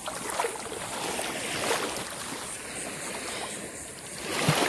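Shallow surf lapping and sloshing at the shoreline, a steady wash of water with a few small splashes.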